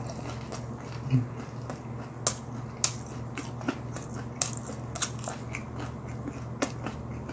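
A man chewing a big mouthful of fried food close to the microphone: irregular sharp crunches and wet mouth clicks, about two a second.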